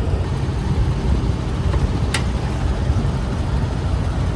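Steady low rumble of an idling vehicle engine, with a single short sharp click about two seconds in.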